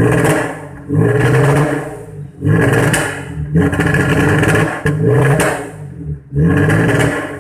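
Audi TT engine revved in about six short throttle blips, each pitch rising and then falling back between them. The engine has a misfire that the workshop traced to fuel pressure too low, about 2.5 bar against the 3.5 bar the injectors need, from a worn fuel pump.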